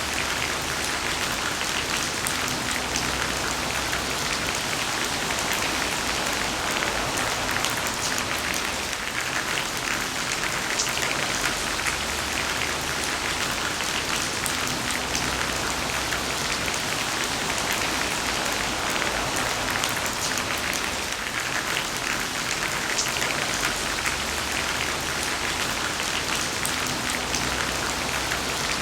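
Heavy rain falling steadily, a dense patter of drops hitting a surface, with a faint low rumble that swells and fades a few times.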